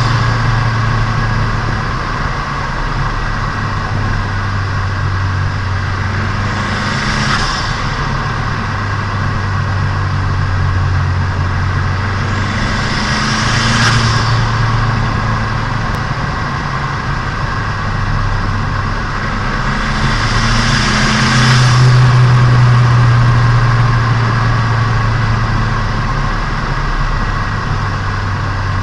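Turbocharged Nissan Micra engine running while driving during its break-in, heard onboard. The engine note shifts in pitch and load a few times. A rushing hiss swells and fades three times, about seven seconds apart.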